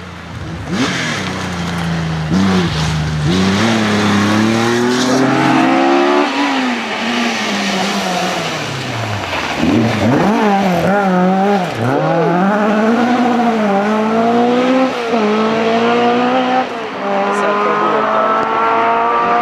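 Historic rally car's engine driven flat out. Its pitch climbs in steps as it changes up through the gears, falls away for a few seconds about six seconds in as it slows, with brief dips, then climbs through the gears again.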